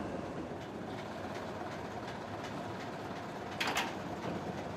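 Train moving slowly on rails as the class 52 steam locomotive is brought out of its shed: a steady running noise, with a short burst of hiss about three and a half seconds in.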